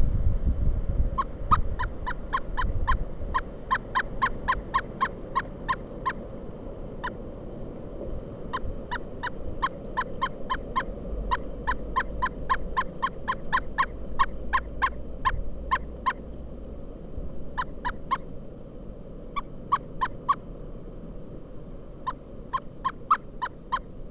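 Pileated woodpecker calling: long runs of loud, evenly spaced 'kuk' notes at about four a second, broken by short pauses and starting up again several times.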